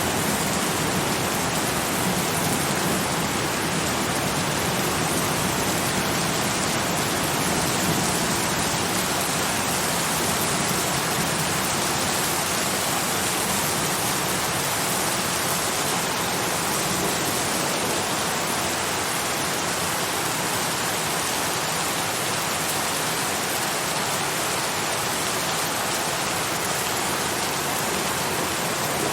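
Steady, heavy rain falling, an even hiss with no single drops or thunder standing out.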